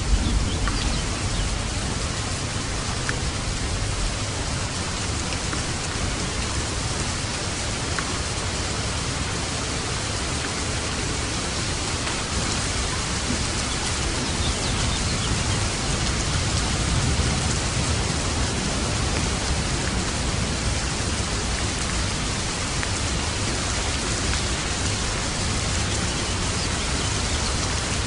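Steady rain falling, an even hiss with no break, with a low rumble of thunder dying away at the start.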